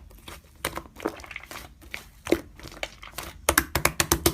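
Slime being squeezed and poked by hand, giving sharp crackling pops and clicks, with a quick run of pops near the end.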